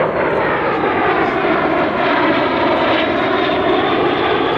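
Aircraft engines of a close formation flying past, a loud steady drone whose pitch bends down and back up during the pass.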